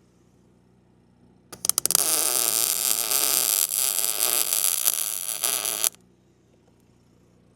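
Electric welding arc on steel: the arc sputters a few times as it strikes about a second and a half in, then crackles steadily for about four seconds and stops abruptly as the bead is finished.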